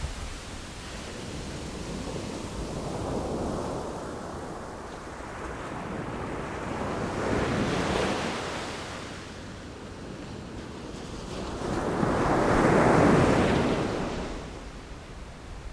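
Sea waves breaking and washing ashore in slow surges, the loudest about three-quarters of the way through, with wind blowing across the microphone.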